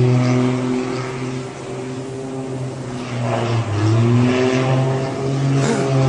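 An engine running with a steady low drone that starts abruptly, its pitch dipping slightly and recovering a few times.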